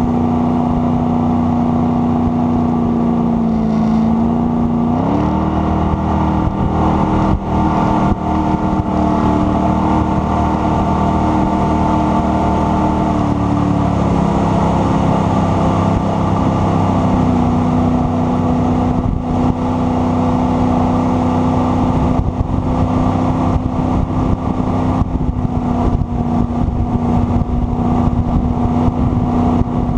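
Jet boat engine running steadily under way, with a rush of water and wind beneath it. Its pitch dips about four seconds in, rises quickly and holds higher, then drops back and settles a little higher again later on.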